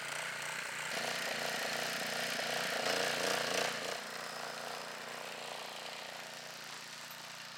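Small gas engine of a go-kart mower running, stuck in snow; it is louder for the first four seconds or so, then drops back to a steadier, quieter run.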